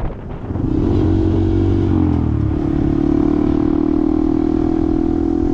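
Vehicle engine picking up speed, its pitch shifting for a second or two, then holding a steady note as it cruises, with road and wind noise.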